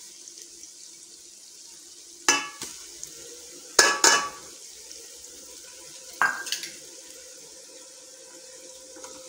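Onions sizzling in hot oil in an aluminium pot, a steady faint hiss. Steel bowl and spoon clink against the pot four times, loudest a little before the middle, as the garlic, ginger and green-chilli paste goes in.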